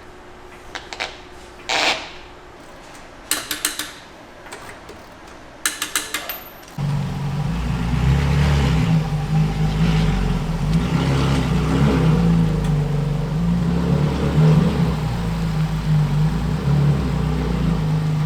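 A few sharp clicks and short rattling runs, then about seven seconds in a sudden switch to the steady low drone of a Range Rover L405 driving on new all-terrain tires.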